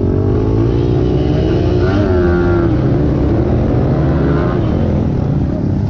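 Kawasaki KLX110 pit bike's small single-cylinder four-stroke engine running under way, its pitch rising and falling as the throttle is worked.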